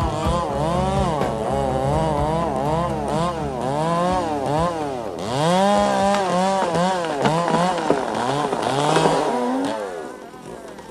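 Chainsaw running, its pitch rising and falling over and over as the engine revs and is pulled down, then fading out near the end.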